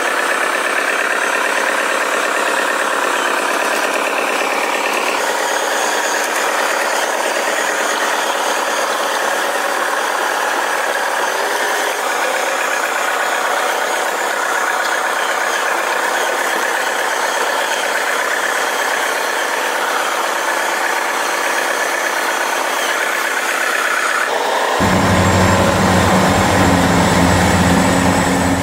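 Remote-control toy construction vehicles running with a steady engine-like idling sound. Near the end it changes abruptly to a louder, deeper hum.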